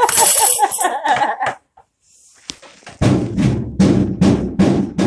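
A high-pitched, wavering vocalizing, then after a short pause a rapid run of about eight drum-like bangs, some three to four a second.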